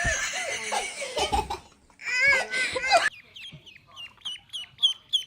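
People laughing, then a bird's short, high, falling chirps repeated about four times a second.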